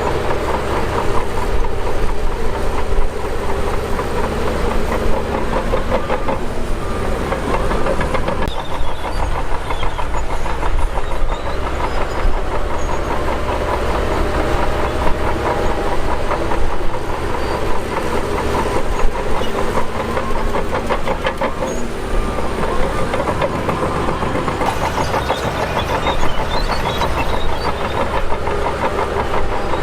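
Shantui DH17 crawler bulldozer at work: its diesel engine runs steadily under load, with a rapid, continuous metallic clatter from the steel tracks.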